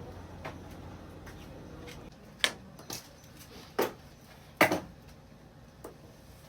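A handful of short, sharp clacks and knocks of hard objects being handled, the loudest about four and a half seconds in. Under the first two seconds there is a low steady hum.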